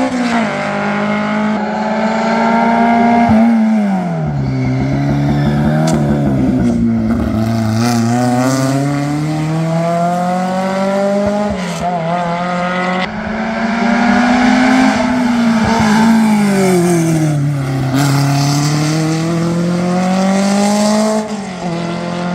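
Historic competition car's engine at racing speed on a hill climb. The revs climb and drop back again and again as it works through the gears.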